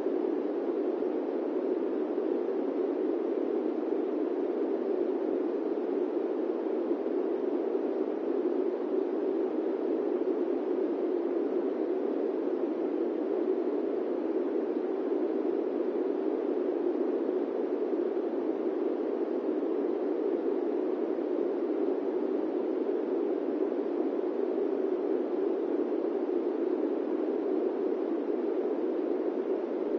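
Steady airplane cabin noise: an even, low rushing hiss with no engine tones and no changes.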